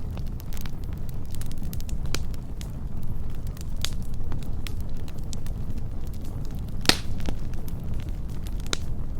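Wood campfire burning, crackling with scattered sharp pops over a steady low rumble; one louder pop about seven seconds in.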